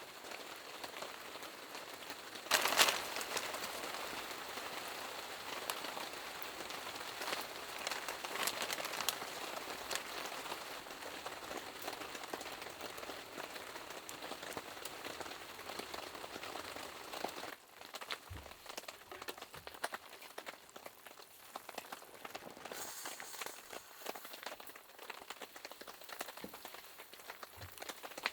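Steady rain falling, with a sudden louder burst about three seconds in. The rain eases to lighter, scattered drops a little past halfway.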